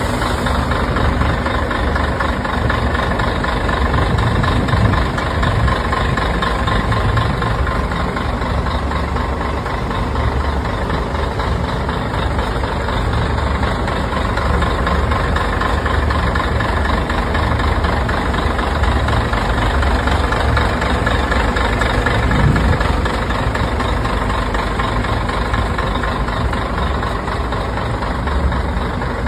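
Bus engine idling: a steady, continuous low rumble with no change in speed.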